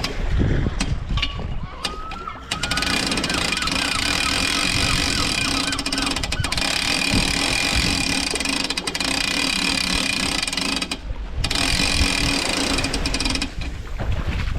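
A motor running steadily with a high whine, starting after a short rising pitch about two seconds in. It cuts out briefly about eleven seconds in, then runs on.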